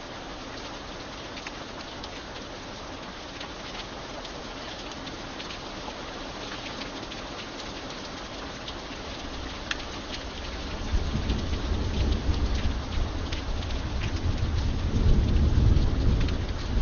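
Steady rain falling, with scattered drops ticking sharply. About two-thirds of the way through, a low rumble of thunder builds and is loudest near the end.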